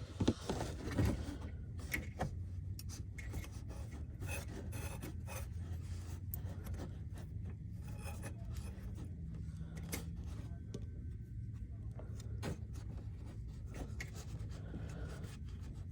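Steady low hum with irregular rubbing and scraping clicks on top, from around the AC compressor pulley of a 2012 Honda Civic Si.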